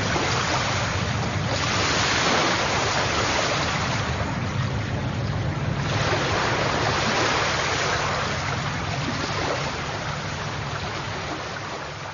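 Rushing water, like surf or a fast stream, swelling and easing every few seconds and fading away near the end.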